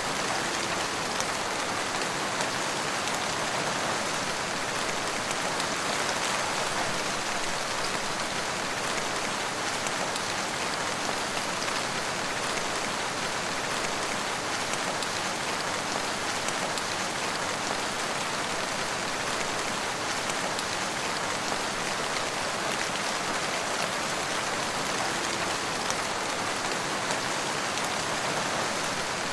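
Steady rain falling and pattering on surfaces, an even hiss of many drops with no let-up or thunder.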